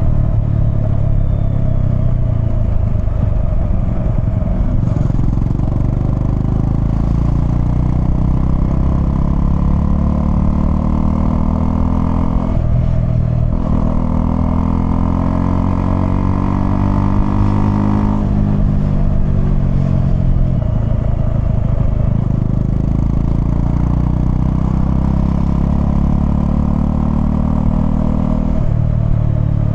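Honda CL250's single-cylinder engine pulling through the gears. Its pitch climbs in each gear and drops at shifts about a third of the way in, just past the middle, and near the end.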